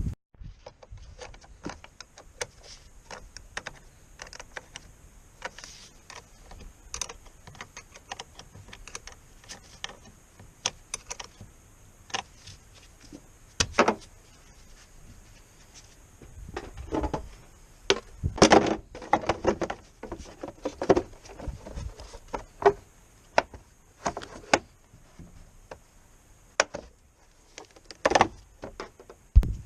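Irregular clinks, clicks and knocks of metal tools and parts being handled, with a louder burst of clatter about eighteen seconds in.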